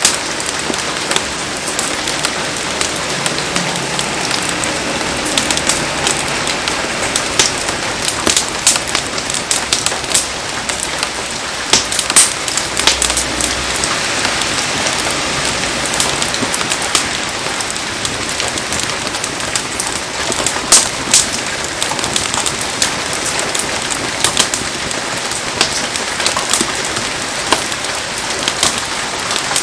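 Heavy rain falling steadily, with many sharp drops striking close by as scattered clicks.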